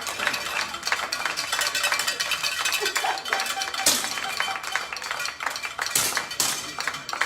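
Air pistol shots: a sharp pop about four seconds in and two more close together about six seconds in, over a steady patter of small clicks and clinks.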